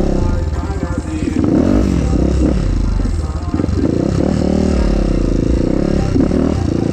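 Motorcycle engine running on the move, its pitch rising and falling with the throttle, over a steady low wind rumble on the microphone.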